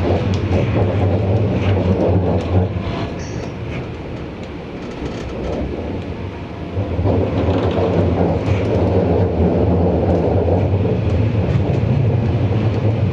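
Tram in motion heard from inside the car: a steady low rumble of wheels on rails and running gear. It eases a little for a few seconds midway, then builds again.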